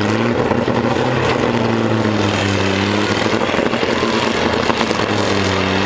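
Engines of several combine harvesters running hard and revving in a demolition derby: a steady low hum under a higher engine pitch that swells and falls, with a few knocks in between.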